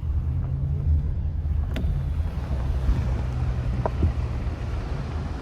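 Car cabin noise while driving: a steady low engine and road rumble with a held low hum, and a couple of faint ticks.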